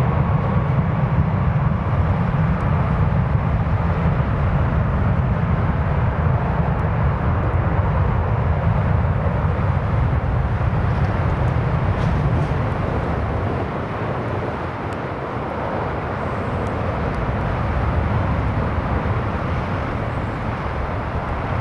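Airliner jet engine noise running steadily, with a gusty low rumble of strong wind on the microphone; a faint whine fades out at the start.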